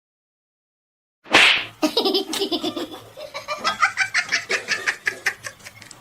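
A sudden loud burst about a second in, then a person laughing hard in quick rhythmic bursts.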